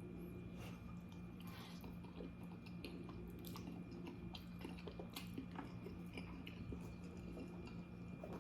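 Faint close-up chewing of pizza roll casserole: soft, irregular wet mouth clicks and smacks, over a steady low hum.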